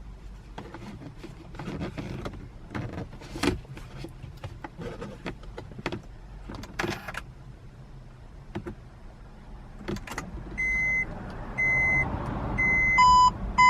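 Scattered clicks and handling noises inside a Honda S660 cabin. About eleven seconds in, the car's electronic warning chime starts beeping, short even beeps about once a second, with a second, lower tone joining in near the end.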